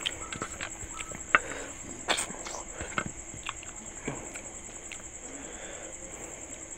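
Close-up eating by hand: wet chewing and lip smacks with a few sharp clicks, one louder about a second and a half in, then softer squishing as fingers mix rice and fish curry on a steel plate. A steady high-pitched trill, like crickets, runs behind.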